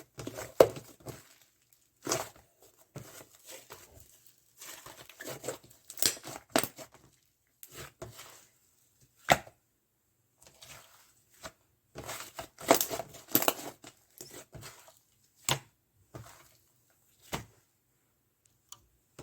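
White slime being squished and stretched by hand, giving irregular crackling clicks and pops with short stretches of soft tearing and crinkling.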